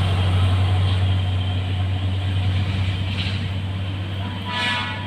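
Heavy truck engine running with a strong, steady low drone that slowly fades as the truck pulls away. A brief higher-pitched tone cuts through about four and a half seconds in.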